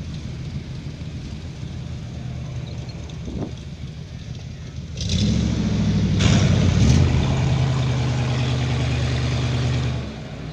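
Car engines at low speed. About five seconds in, a much louder engine comes in and revs briefly, then holds a steady note until it drops away near the end.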